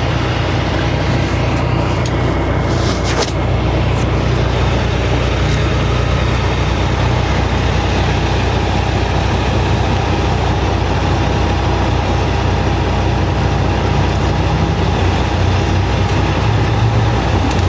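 Heavy truck engine running steadily, with a brief click about three seconds in.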